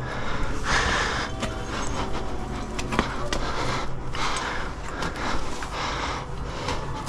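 A climber breathing hard with effort, heavy breaths coming about every second and a half, with scattered short clicks.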